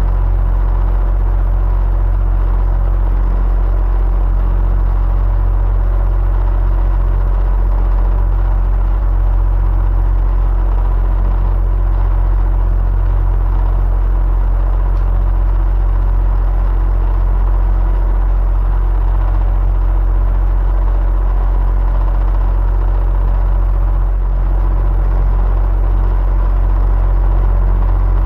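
Electric fan running steadily: a constant low hum and whir with a faint steady tone over an even rush of air.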